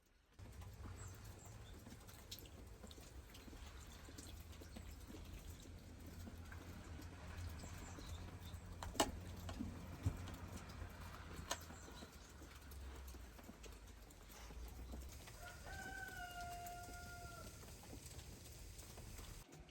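A steady low rumble with a few sharp knocks around the middle, then one long, flat-pitched farm-animal call near the end.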